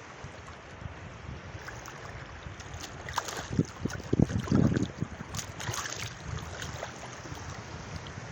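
Sea waves washing at the shore with wind buffeting the microphone, which rumbles in louder gusts between about three and five seconds in.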